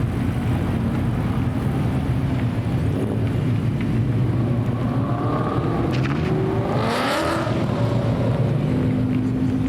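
Car engine rumbling at idle, then revved once: the pitch climbs over about two seconds, peaks around seven seconds in, and drops back to idle.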